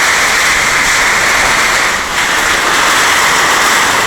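Heavy downpour in a gusty windstorm: a loud, steady rush of rain, dipping briefly about two seconds in.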